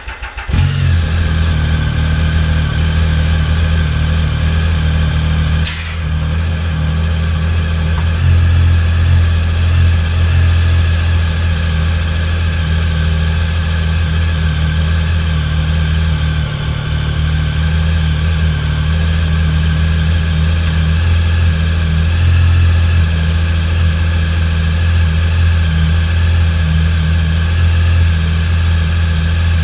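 Motorcycle engine just caught on a cold start, running loud and steady at idle. There is a brief sharp click about six seconds in.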